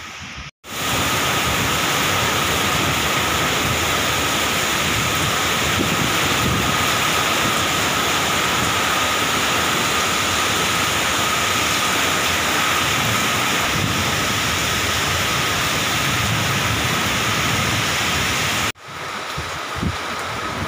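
Heavy rain pouring steadily onto a ship's deck, a loud even hiss with a faint steady whine beneath it. It starts abruptly about half a second in and cuts off sharply about two seconds before the end, leaving a quieter steady hum.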